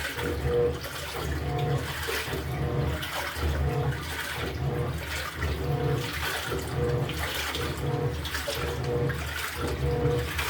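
LG top-loading washing machine agitating a load in water: the pulsator's motor drives it back and forth about once a second, each stroke a brief motor whine and low rumble over the water sloshing in the tub.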